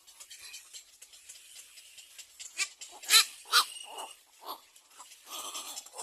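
Birds calling: faint chatter, then a few loud, sharp, harsh calls a little before the middle, and more calls near the end.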